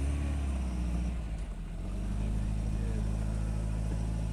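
A car engine idling with a steady low rumble, its pitch settling slightly about two seconds in.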